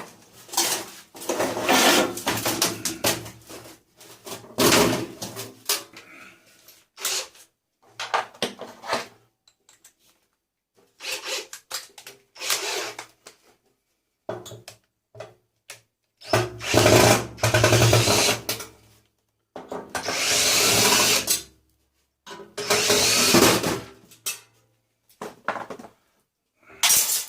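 Power drill running in repeated short bursts of one to two seconds, undoing the fixings to get the tumble dryer's motor out, with short knocks in between.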